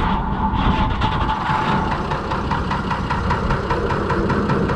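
Six-cylinder Perkins diesel engine in a Fordson Major tractor, freshly started and idling steadily with a diesel knock. A high steady whine runs through the first second and a half, then fades.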